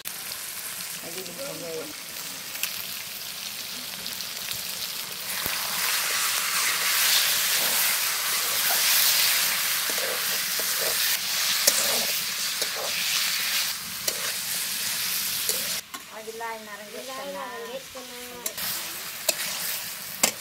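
Chicken pieces sizzling as they fry in a metal kadai, stirred and scraped with a spatula. The sizzle grows louder about five seconds in and drops off suddenly near the end.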